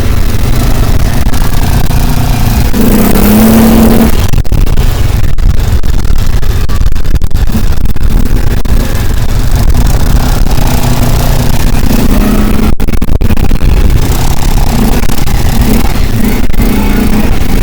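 Motor vehicle driving along: steady, loud engine and road rumble.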